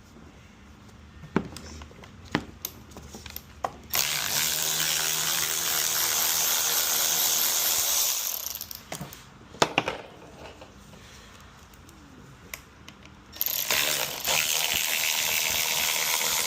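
Power ratchet running in two spells, one of about four seconds and a second of about three seconds near the end, backing out screws. Sharp clicks of tool handling come before each spell.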